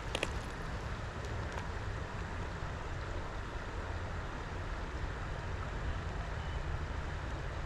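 Creek water running steadily, with a low rumble underneath and a couple of faint clicks in the first two seconds.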